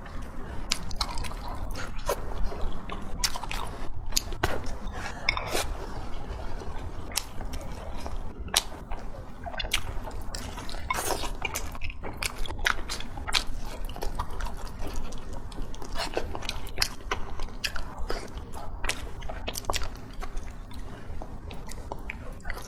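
Close-miked mouth sounds of a person chewing food: irregular wet smacks and clicks, several a second.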